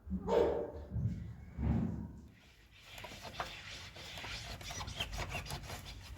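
Rubbing and scraping with many small ticks, after a few dull knocks in the first two seconds.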